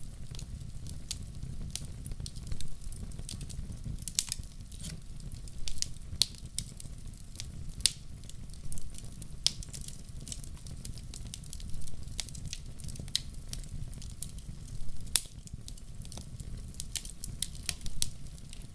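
Wood fire burning in a fireplace: a steady low rumble of the flames with irregular sharp crackles and pops from the burning logs, several louder pops scattered through.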